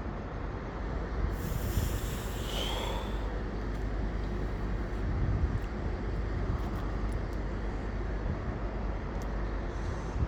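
Train at a station platform: a steady low rumble, with a short hiss about a second and a half in that ends in a brief high-pitched tone.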